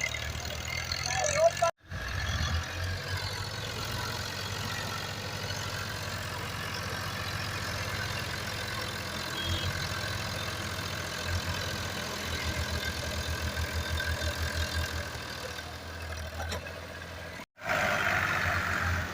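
Tractor diesel engine running steadily, with an even low firing beat that is clearest in the later part.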